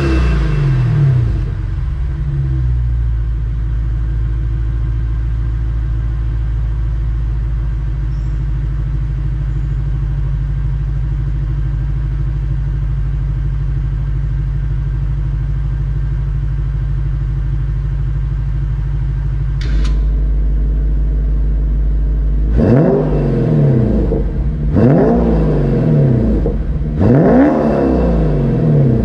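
Lexus GS F's 5.0-litre V8, free-revved in place through an EXART aftermarket exhaust. A rev dies back to a steady idle. Two-thirds of the way in a click comes and the idle rumble grows heavier, then three quick blips of the throttle follow near the end.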